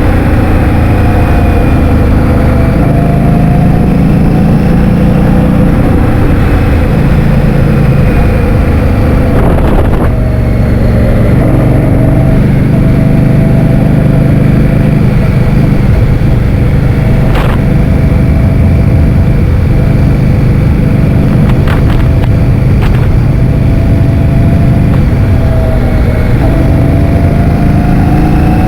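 Heavy wind buffeting on the microphone of a moving scooter, a loud steady rumble, with the scooter's motor running as a faint tone that rises and falls slowly. A few short clicks come through about a third and two-thirds of the way in.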